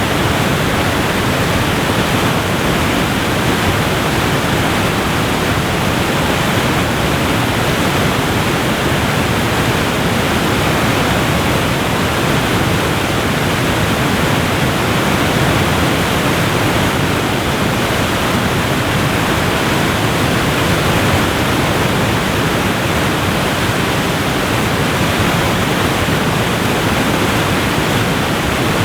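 Waterfall: a steady, dense rush of falling water with no breaks.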